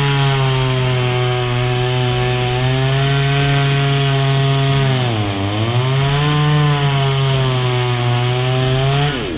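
Petrol chainsaw running at high revs while cutting through bush wood. Its engine pitch sags briefly about halfway through as the cut loads it, then climbs back, and drops off near the end as the throttle is let go.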